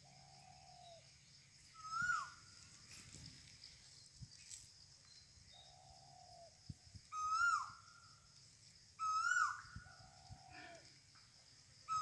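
Birds calling: a short, loud call that rises and then falls, heard three times, alternating with a lower, drawn-out falling call heard about three times.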